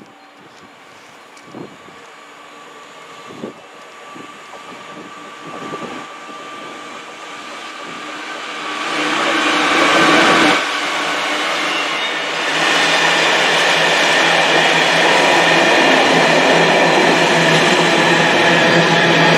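Freightliner Class 66 diesel freight locomotive approaching and passing close with a train of hopper wagons. It is faint at first, grows louder from about halfway and is loudest as the locomotive goes by, then the wagons roll past with a steady, loud noise of wheels on rails.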